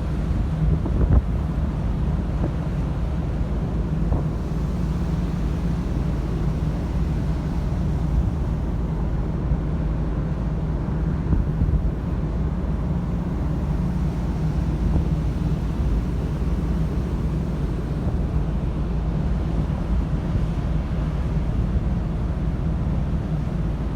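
Steady low rumble of a ferry at sea, with wind buffeting the microphone.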